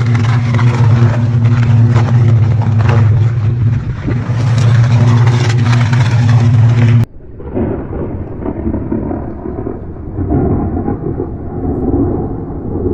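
Loud steady noise over a low, even hum, which cuts off suddenly about seven seconds in. It gives way to a quieter, muffled rumbling like thunder.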